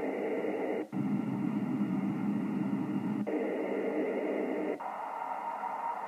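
Hiss and static from a Yaesu FT-1000MP HF receiver tuned to the 20-metre sideband net, cut off above about 3 kHz by the sideband filter. The noise changes character abruptly three times as signals key on and off the frequency.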